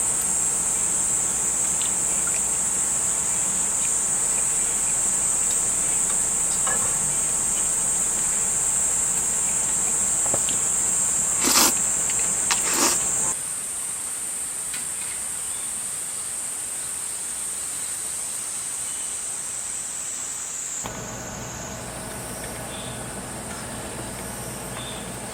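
Insects, likely crickets, chirring in a steady high-pitched trill, with a couple of sharp clicks about halfway through. The background shifts abruptly twice.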